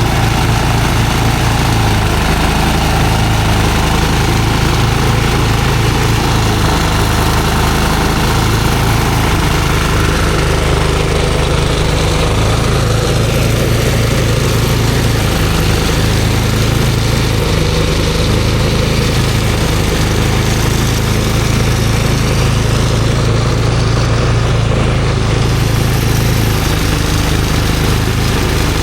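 An engine running steadily and loud, at an even speed.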